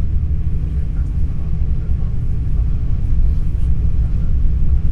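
Steady low rumble of an NS Intercity New Generation (Alstom Coradia Stream) electric train in motion, heard from inside the passenger carriage.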